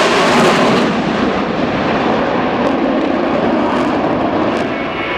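Blue Angels F/A-18 Hornet jets roaring past in a low pass. The roar is loudest in the first second and then eases off slowly as they draw away.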